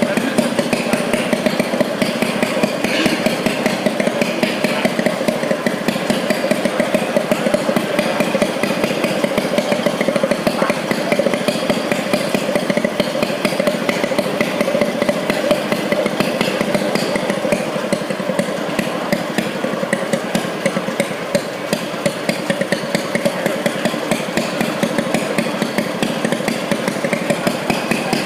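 Small model diesel engine running steadily, with a rapid, even knocking from its firing.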